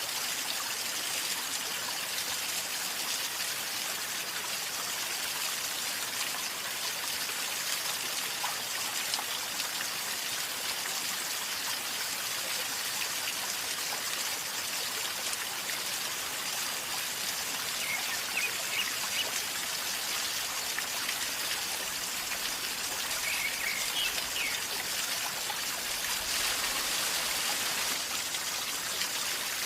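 River flowing calmly, a steady, even gurgling of running water.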